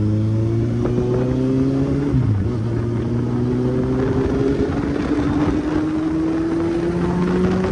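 Kawasaki Z800's inline-four engine accelerating, its pitch rising, dropping at a gear change about two seconds in, then climbing slowly again.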